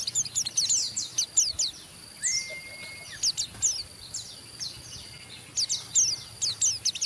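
White-eye (pleci) singing a fast, harsh 'ngeriwik' twitter: clusters of short, high chirps, each sliding sharply downward, with a thinner stretch in the middle. About two seconds in, a single held whistle-like tone lasts about a second.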